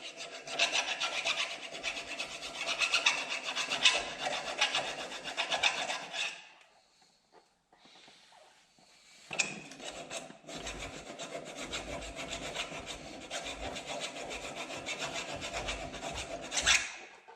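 Hand file rasping on metal in rapid back-and-forth strokes, in two bouts of about six and seven seconds with a short pause between, smoothing down a slightly bent part.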